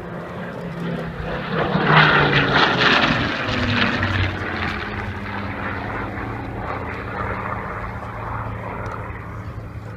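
Supermarine Spitfire's piston engine on a flypast: it swells to its loudest about two seconds in, drops in pitch as it passes, then runs on as a fading drone.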